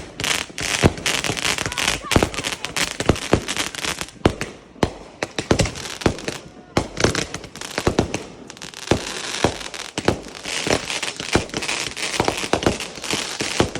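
Fireworks going off: a rapid, irregular string of sharp bangs and pops over continuous crackling.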